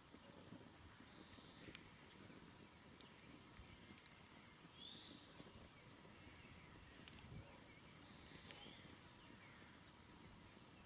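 Faint crackling of a smoldering wood campfire, a few scattered small pops. Faint bird chirps sound a few times in the background.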